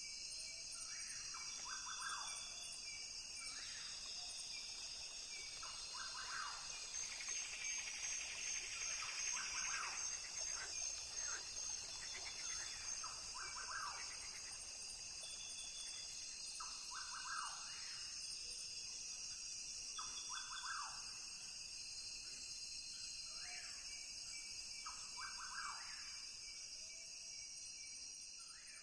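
Rainforest ambience: a steady high-pitched chorus of insects, with short bird calls repeating every few seconds.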